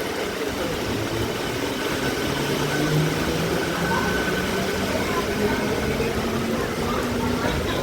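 Train running with a steady, loud engine noise; a low hum rises a little in pitch about two to three seconds in.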